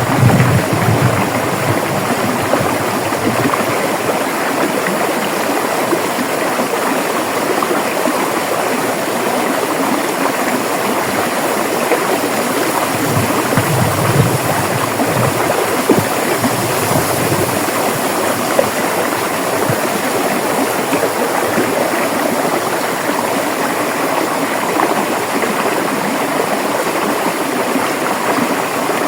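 River water flowing over rocks: a steady, dense rush of running water with some gurgling, and a deeper low surge now and then.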